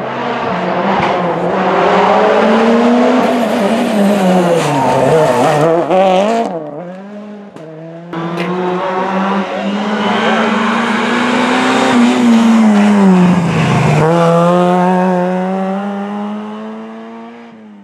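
Rally car engines at full throttle on a special stage, in two passes one after the other. Each pass climbs in pitch through the gears and drops sharply as the car lifts and brakes, and the second pass fades away near the end.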